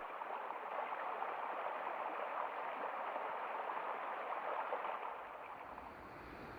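Steady rush of running water, easing off a little about five seconds in.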